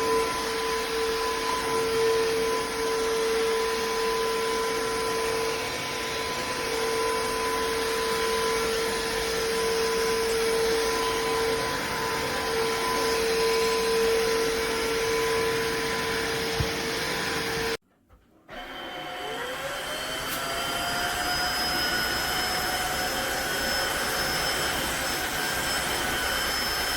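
Tineco iFLOOR 3 Breeze cordless wet-dry floor vacuum running steadily with a high, even whine. About 18 seconds in it cuts out for under a second, then starts again, its whine rising in pitch as the motor spins up before holding steady.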